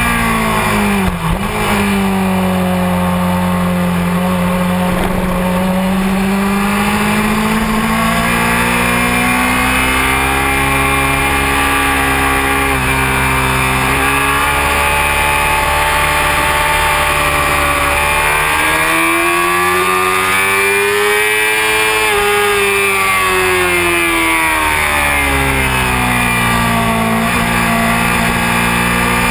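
Honda CBR600F4i's inline-four engine at track speed, picked up with steady wind rush. The revs rise and fall repeatedly, with a long climb about two-thirds of the way through that then drops back.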